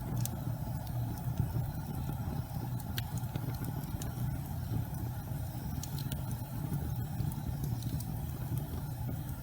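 Gas fireplace burning: a steady low rumble of the flames, with scattered sharp crackles at irregular moments.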